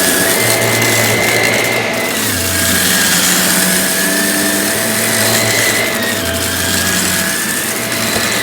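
Samsung CycloneForce upright vacuum cleaner running, a steady rush of air under a motor whine that drifts slightly up and down in pitch.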